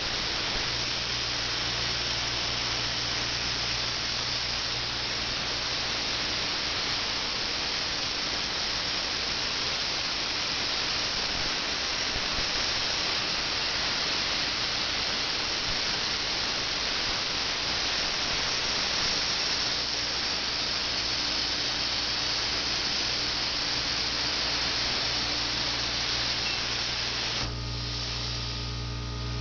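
CNC plasma cutter arc, a steady loud hiss over a low electrical hum, as the torch cuts steel. Near the end the hiss cuts off, leaving the machine's hum with several steady tones.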